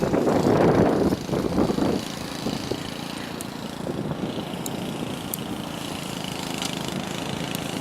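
A small engine idling steadily in the background, after a louder, irregular stretch of noise in the first two seconds.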